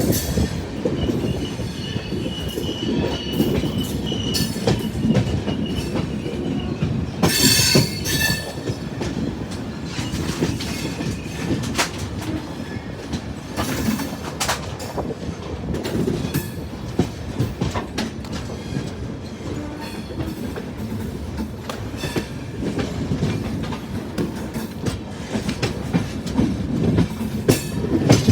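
Sealdah Rajdhani Express passenger train rolling along the track, a steady rumble with wheels clicking and clattering over rail joints. A thin high wheel squeal sounds over the first few seconds, and a louder screech comes about seven to eight seconds in.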